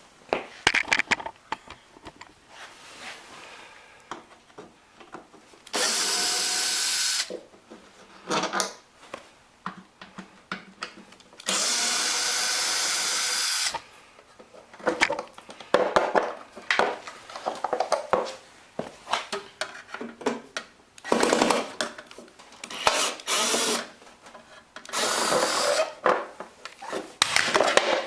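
Compressed-air blow gun blasting in bursts, starting and stopping abruptly: two long blasts, then several shorter ones later, with clattering knocks from handled parts and tools in between.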